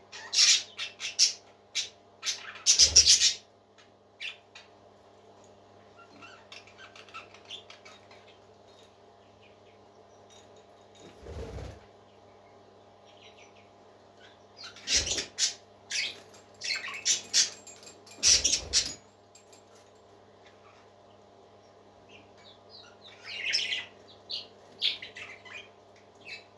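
Parakeets chirping and twittering in short bursts separated by quieter stretches, with a few low thumps among them. A steady low hum runs underneath.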